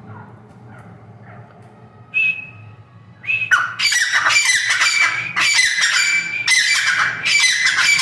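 Francolin calling: a short high call about two seconds in, then from about three and a half seconds a loud, harsh run of repeated squawking calls.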